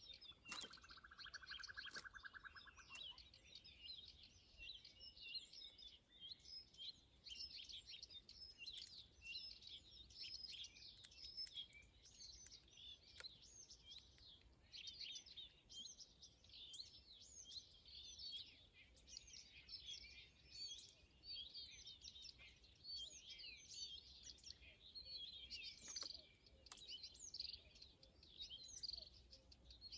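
A flock of small birds chirping and twittering continuously, faint. In the first few seconds there is also a short buzzy trill, lower in pitch than the chirps.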